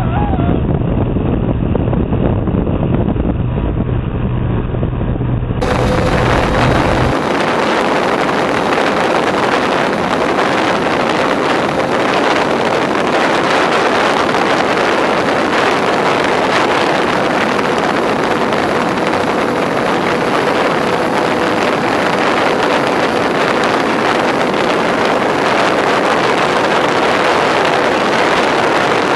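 Twin electric motors of a Twinstar II RC plane in flight, heard through its onboard camera as a steady rush of wind over the microphone with a faint steady motor whine. About five seconds in the sound changes abruptly to a brighter, hissier rush.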